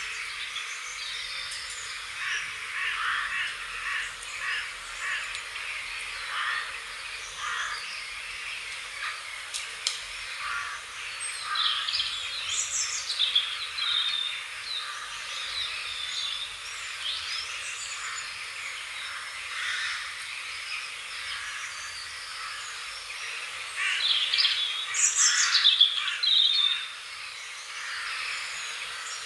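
Several wild birds singing and chirping over a steady background hiss, with a flurry of louder calls about twelve seconds in and the loudest burst of song near the end.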